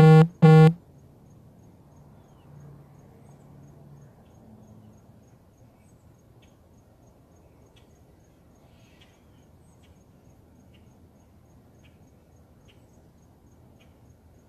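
Two loud, short, honk-like calls in quick succession right at the start. After them, faint high ticks repeat evenly about twice a second, with a few scattered faint clicks.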